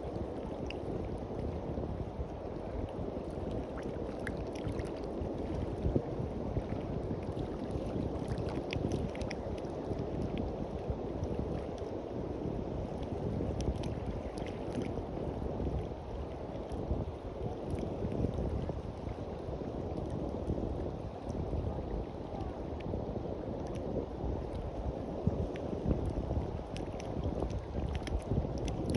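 Seaside ambience: a steady low rush of wind on the microphone mixed with small waves washing on the shore, with faint scattered ticks of water and sand.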